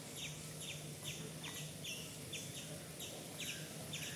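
Birds chirping continually in the trees, short falling chirps about three a second, over a steady low hum.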